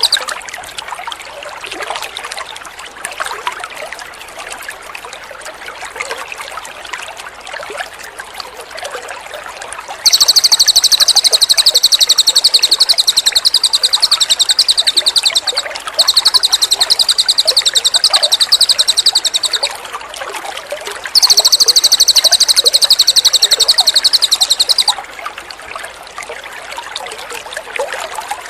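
Water trickling steadily, broken by three long bursts of a cililin bird's loud, high-pitched song of rapidly repeated notes. The bursts start about ten seconds in and end about four seconds before the close.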